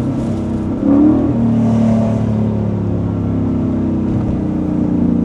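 Ford Mustang GT's 5.0 V8 idling through its exhaust, with a short blip of the throttle about a second in.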